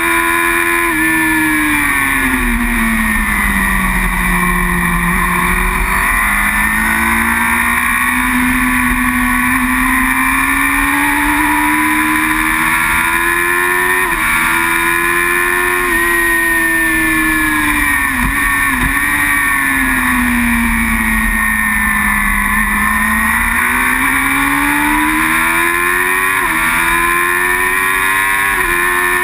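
Racing superbike engine heard onboard under hard riding. Its pitch falls away under braking, then climbs again with quick drops at each upshift, twice in the middle and twice more near the end, over a steady rush of wind.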